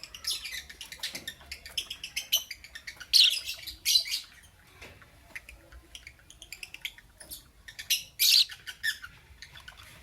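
Lovebird chirping in quick, short high calls, with louder shrill squawks about three, four and eight seconds in.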